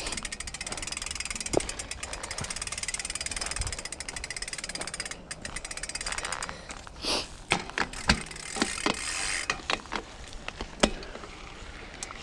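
Mountain bike running downhill on a dirt trail. For about the first five seconds the rear hub ticks rapidly and evenly as the bike coasts. After that the bike rattles, with several sharp knocks as it rolls over rough ground.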